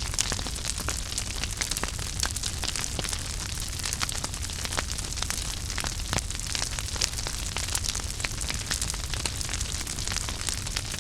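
Wood fire burning in a fireplace, crackling and popping steadily with many sharp snaps, over a constant low rumble of the flames.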